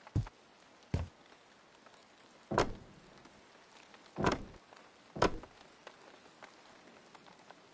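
Five separate knocks and thuds at uneven intervals, two of them longer and fuller, like objects being set down or handled.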